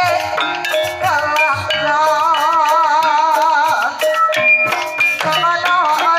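Banyumasan gamelan music for tayub: struck metallophone tones and low drum strokes keep a steady pulse, with a long wavering held melody note in the middle.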